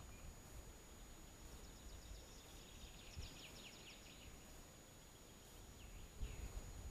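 Faint songbird song: a run of quick, descending high notes starting about a second and a half in and lasting a couple of seconds, with a few more notes near the end, over a low rumble.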